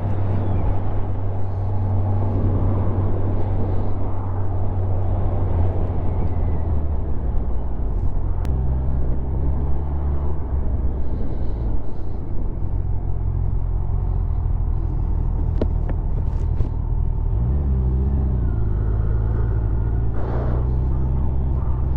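Kawasaki motorcycle engine running at road speed, heard from the rider's helmet with wind rush over the microphone. The engine note changes about eight seconds in and briefly rises around seventeen seconds.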